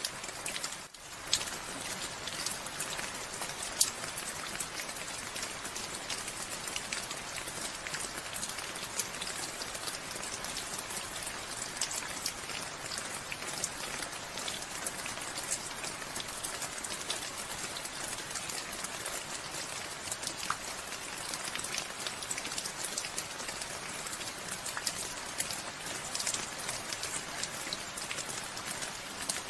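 Steady rain falling, with many single drops striking close by heard over the even hiss of the downpour. The sound dips briefly about a second in, then carries on unchanged.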